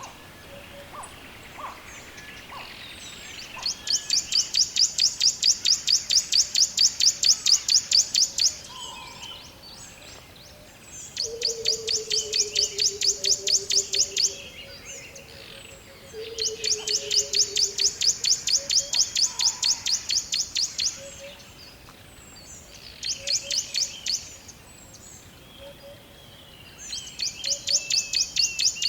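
Forest birdsong: a rapid, high-pitched pulsing trill comes in runs of several seconds, five times with short pauses, over softer scattered calls, including two lower falling notes in the middle.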